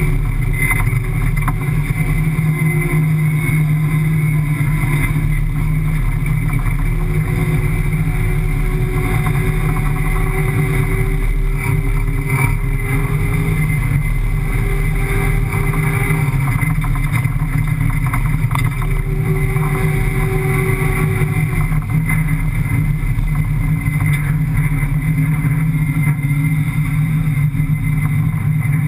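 Desert rally car's 5.7-litre Hemi V8 running hard and steadily, heard from inside the cabin, its note rising and falling a little as the car drives over sand dunes.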